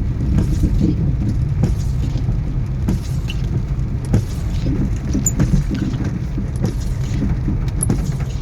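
Electric car driving over a rough road, heard from inside: a steady low rumble of tyres and suspension with frequent small knocks and rattles, and no engine note.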